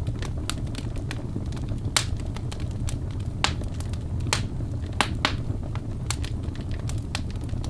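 Wood fire burning in a fireplace: a steady low rumble of flames with frequent sharp crackles and pops, the loudest about 2, 3.5, 4.5, 5 and 6 seconds in.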